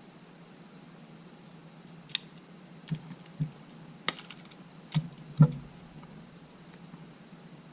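A handful of short, sharp clicks and taps, about six in a few seconds, with the loudest one about five and a half seconds in: small hard parts of a camera body being handled and pressed during repair.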